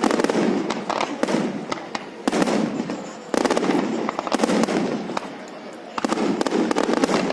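Fireworks display: rapid crackling bangs and pops in dense volleys, with fresh surges of bursts about a third of the way in, near halfway and near the end.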